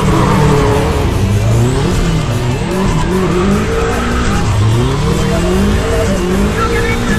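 Drift car's engine revving up and falling back again and again through the slides, with tyre squeal.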